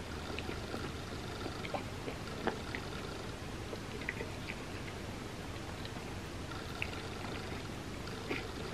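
Soft, close-up mouth sounds of someone eating a gooey iced cinnamon roll: chewing with scattered small wet clicks and finger-licking, over a faint steady hiss.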